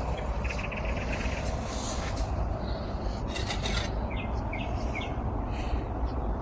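Small birds chirping and trilling in short calls over a steady low background rumble. A quick trill comes about half a second in, and a run of brief chirps follows past the middle.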